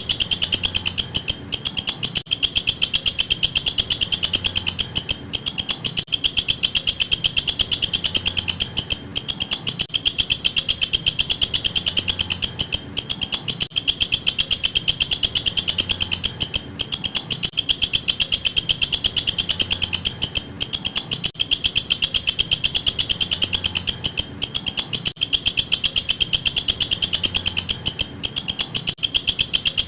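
A walang kecek insect calling: a loud, rapid, high-pitched pulsing chirr. Short breaks come every few seconds.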